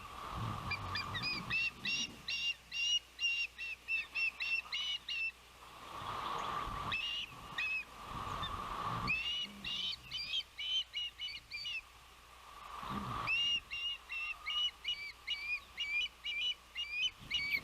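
Ospreys calling: several runs of sharp, repeated chirps, about three or four a second, broken by short pauses. Gusts of wind buffet the microphone in between.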